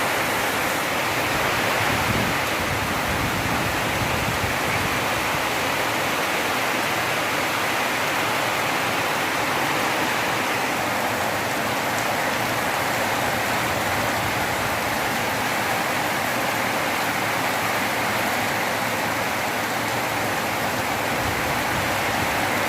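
Rain falling steadily, an even, unbroken hiss of downpour.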